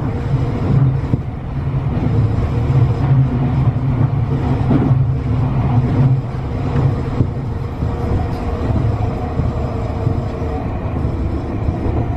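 Tobu 50090-series electric train running at steady speed: a continuous low rumble of wheels on the track, with a faint steady motor hum over it.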